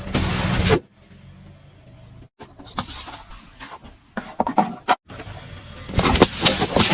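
A car tyre rolling over and crushing objects, in a string of short cut-together clips of crunching and crackling. The loudest bursts come at the very start and again about six seconds in.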